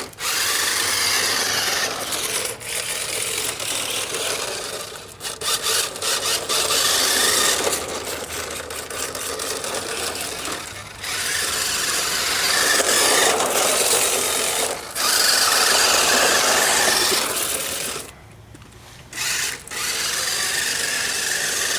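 Battery-powered RC drift car running, its small electric motor whirring and its tires scrubbing as it slides, swelling and easing with the throttle. The sound drops away briefly a few times, with a longer lull about two-thirds of the way through.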